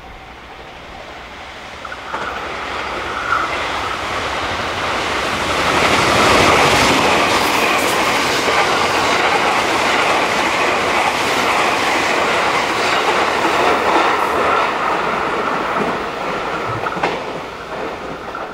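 A Thunderbird limited express electric train approaches and passes at speed, its wheels clacking over the rail joints with a steady high whine underneath. The sound builds from about two seconds in, is loudest as the cars go by, and fades near the end.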